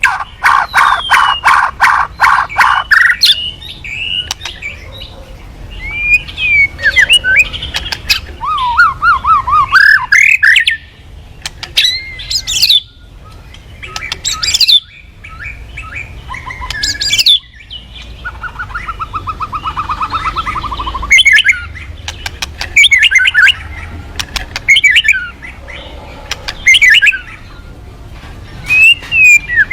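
A murai, a Copsychus songbird, singing a loud, varied song in bursts with short pauses: a fast run of repeated notes at the start, sweeping whistles, and a buzzy trill around two-thirds of the way through.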